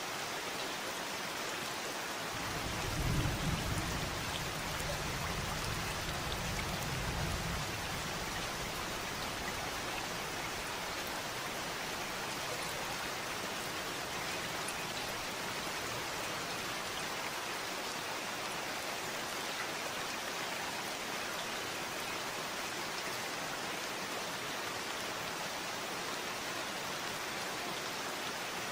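Steady rain falling, an even hiss of drops. A low rumble rises under it a couple of seconds in and fades out about five seconds later.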